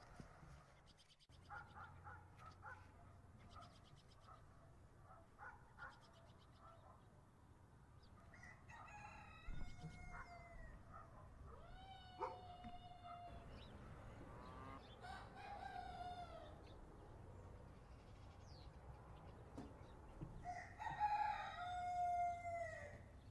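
Domestic rooster crowing about four times, each crow a long call that falls away at its end, the last one the loudest. Shorter clucking notes from chickens come before the first crow.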